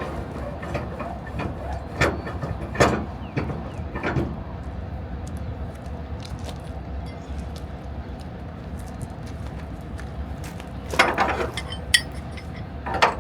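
Truck engine running with a steady low rumble, with a few short sharp clinks and rattles about two to four seconds in and again near the end.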